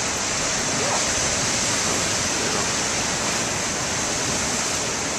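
Surf from big ocean waves breaking, a steady rushing noise that holds at an even level.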